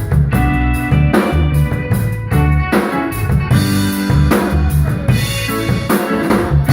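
Live instrumental band playing: a drum kit keeps a steady beat with bass drum and snare hits under a moving bass line and held chords.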